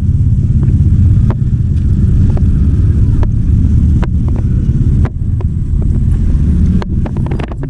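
Heavy earth-moving machinery running with a loud, steady low rumble, broken by a few sharp clicks.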